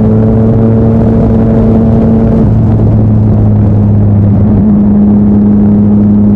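Yamaha MT-09 inline-three engine running through an Akrapovic titanium exhaust at a steady engine speed, a low, even note with small shifts in pitch about two and a half and four and a half seconds in.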